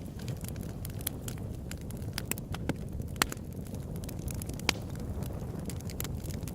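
Open-air wood campfire burning: a steady low rumble of flames with irregular sharp crackles and pops, two louder pops about three and almost five seconds in.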